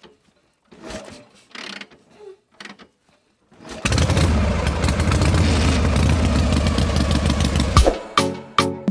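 An engine starting about a third of the way in, running steadily with a rapid ticking for about four seconds, then stopping.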